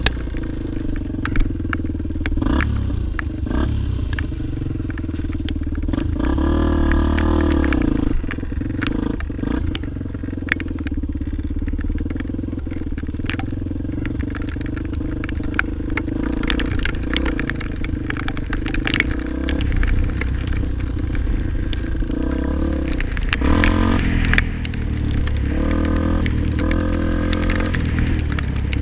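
Motorcycle engine running steadily, with the revs rising and falling about six seconds in and again near the end, over scattered clatter and scraping.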